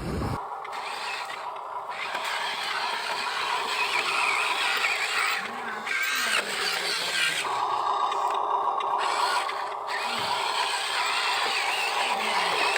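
Small electric motors and gearboxes of RC construction models running and scraping, a steady mechanical whir with brief changes in motor pitch.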